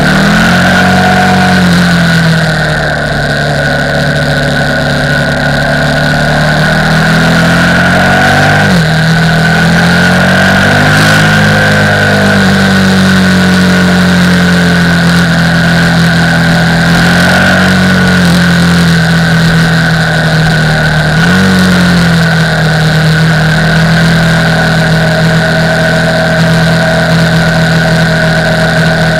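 KTM 990 Supermoto R's LC8 V-twin engine running as the bike is ridden, holding a mostly steady pitch, with a brief drop and recovery in engine speed about 9 seconds in and a short rise and fall about 21 seconds in.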